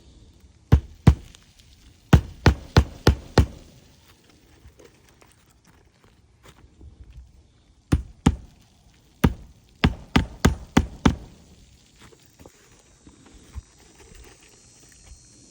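Hammer blows on a shingle roof, in quick runs of sharp knocks: two near the start, five about two seconds in, two more about eight seconds in, then about seven in a row.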